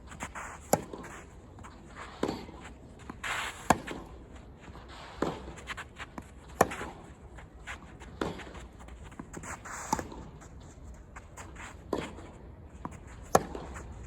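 A long tennis rally: racket strikes on the ball about every one and a half seconds, alternating a louder near hit with a fainter far one, with footsteps on the court between shots.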